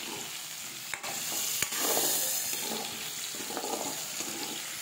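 Raw banana slices sizzling in hot oil in a metal wok on high heat, stirred with a metal spoon that scrapes along the pan, with a couple of sharp clinks between one and two seconds in.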